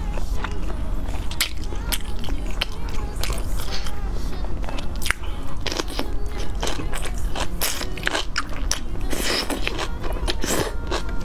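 Close-miked eating of spicy chili-coated cabbage: a rapid, irregular run of crisp crunches and wet chewing and mouth sounds, busiest and loudest near the end, over a steady low hum.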